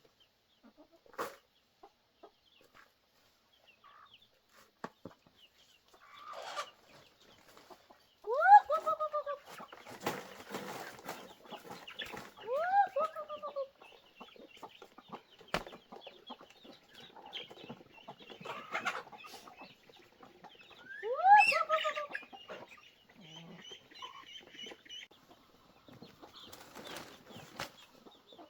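Chickens clucking, with three loud calls that swoop up then down, and scattered light knocks.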